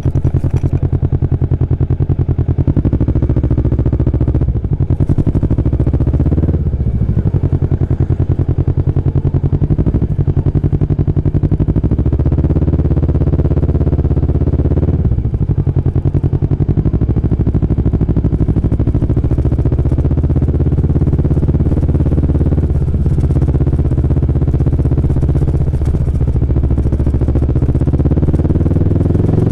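Kawasaki Vulcan S parallel-twin engine running while riding, its note rising and falling with the revs, with several brief dips that sound like gear changes.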